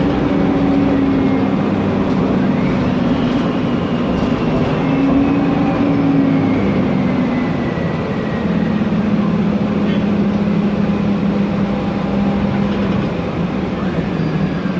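Mercedes-Benz Conecto NGT city bus under way: the CNG engine's steady drone with a thin Voith automatic-transmission whistle that slowly falls in pitch, twice, over a constant fan-like rush.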